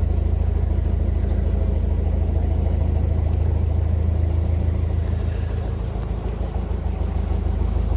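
Narrowboat's diesel engine running steadily under way, a low even rumble that dips slightly about six seconds in.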